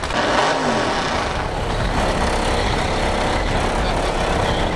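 Fox-body Ford Mustang drag car's engine coming off a burnout, its revs falling about half a second in, then running steadily at low speed as the car rolls up to stage.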